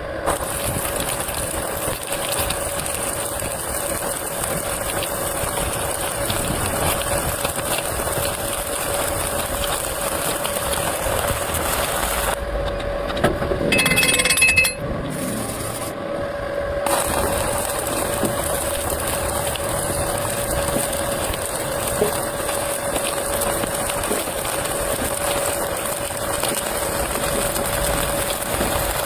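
Electric arc welding: a steady crackling hiss over a constant hum from the welding machine. About twelve seconds in, the arc drops out for a few seconds, with a brief burst of louder metallic clinking and scraping before it resumes.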